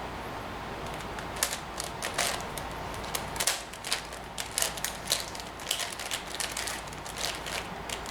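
Plastic layers of a 5x5 Rubik's cube (Professor's Cube) being turned by hand: an irregular run of quick clicks and clacks starting about a second and a half in and going on to near the end, over a steady background hiss.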